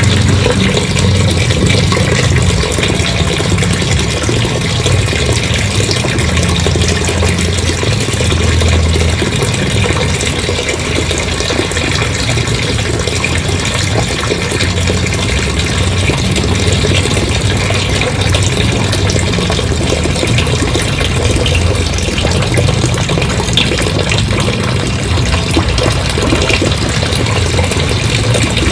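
Engine-driven pump running steadily with water gushing out as the water is pumped away.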